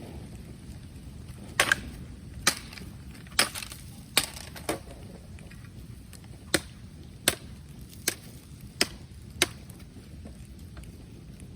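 Bonfire of bamboo and wood burning, with about a dozen sharp, irregular cracks and pops over a steady low rumble; the cracks stop near the end.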